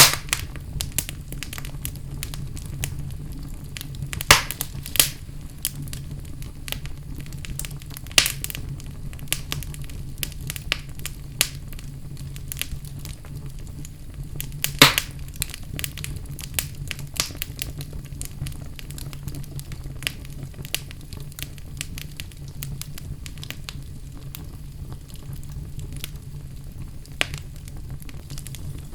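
Wood fire burning in a fireplace: a steady low rumble of flames with irregular crackles and a few sharp pops, the loudest about fifteen seconds in.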